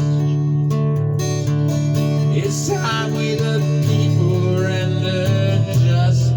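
Acoustic guitar strumming chords in an instrumental passage of a song, with a bending melody line over it; the bass notes shift about 4 and 6 seconds in.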